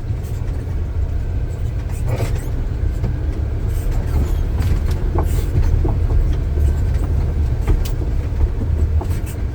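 Heavy diesel earthmoving machinery running with a steady low rumble, with scattered short knocks and clanks.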